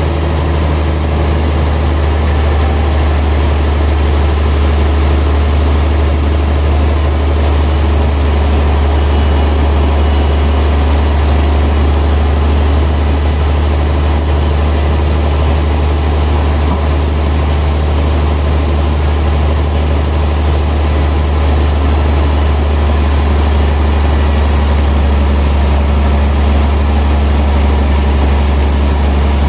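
Sawmill machinery running with a steady, heavy engine hum that holds unchanged throughout.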